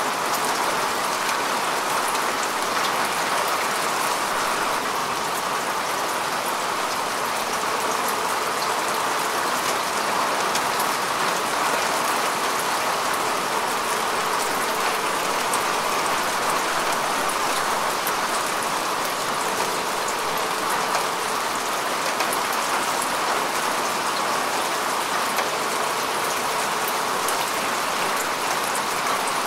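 Steady rain falling on grass and earth, an even patter of drops without letup.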